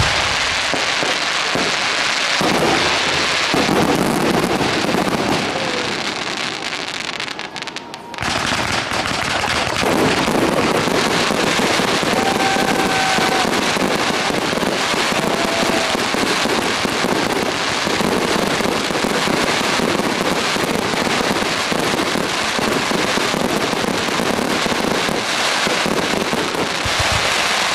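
Fireworks display: a dense, continuous crackling din of many bursting shells and crackling stars. It eases off briefly about a quarter of the way in, then starts up again just as dense.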